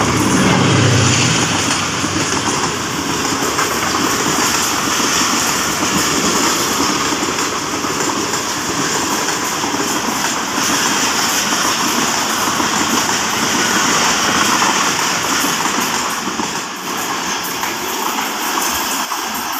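ZCU-30 class diesel locomotive's engine passing close at speed, then a long rake of passenger coaches rushing past, wheels clattering over the rail joints. The clatter eases slightly near the end as the last coaches pull away.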